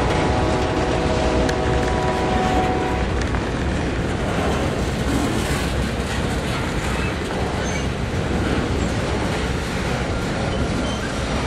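Freight train of autorack cars rolling past at close range: a steady rolling noise of steel wheels on the rails. A thin, steady, high squeal sounds over it for about the first three seconds.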